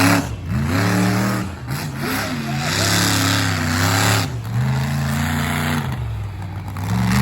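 Monster truck engine revving hard, its pitch surging up and falling back again and again, held at high revs for a second or so at a time.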